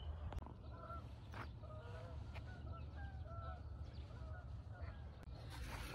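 A run of short, faint bird calls between about one and three and a half seconds in, over a steady low rumble.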